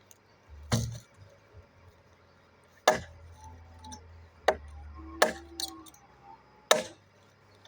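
Machete blows chopping into a hardwood log: five sharp strikes at uneven intervals of one to two seconds.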